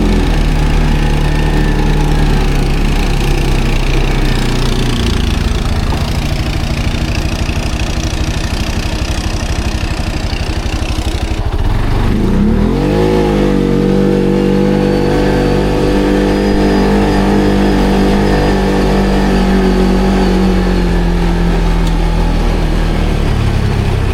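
ATV engine running under way, dropping off briefly about halfway through, then revving up and holding at higher revs before easing back near the end.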